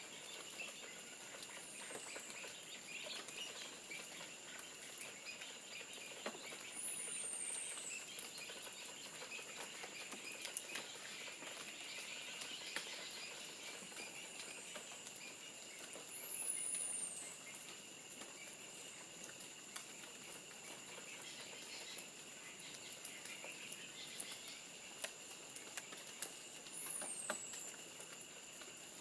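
Forest ambience with a steady high insect drone throughout and a high whistled bird call that slides downward, heard three times with a fainter fourth, plus scattered light ticks and rustles in leaf litter.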